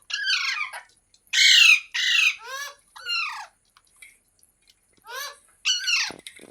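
Green rose-ringed parakeet giving a run of loud, harsh squawks, each dropping in pitch. About five come in quick succession over the first three and a half seconds, then two more near the end.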